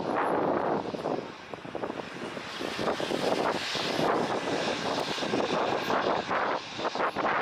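Jet airliner's engines heard from the ground, a steady noise whose level wavers.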